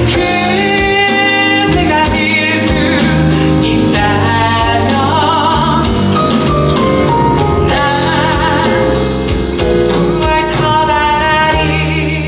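Musical theatre singing with strong vibrato over instrumental accompaniment, with long held notes; the music starts to die away near the end.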